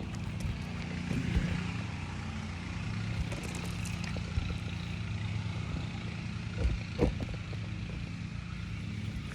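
Scattered short knocks and scrapes as asphalt roof shingles are pried loose, the sharpest pair about two-thirds of the way in, over a steady low mechanical hum.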